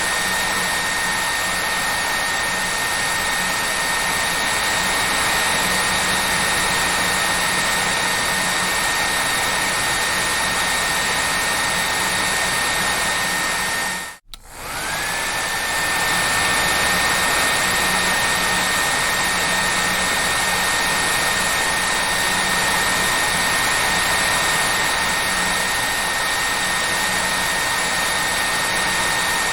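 Hair dryer running with a steady airflow rush and a high motor whine. About halfway through, it cuts out for an instant, and the whine rises back to pitch as it returns.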